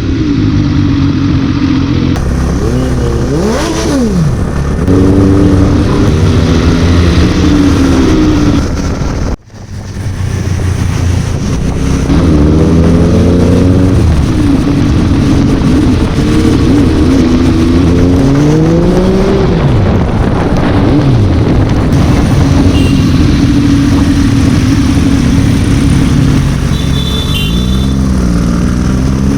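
MV Agusta F3 RC's 798 cc inline-three engine through an SC Project exhaust, being ridden hard on the road: the engine note climbs and drops back again and again as it accelerates and shifts gears. The sound briefly cuts out about nine seconds in.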